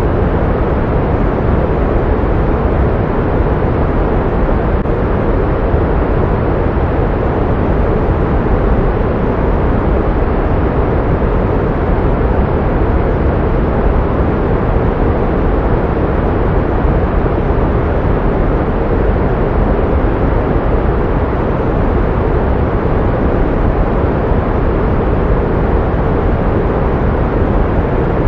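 Steady synthetic pink noise: an even, unbroken rushing hiss, heavier in the low end and softer toward the top.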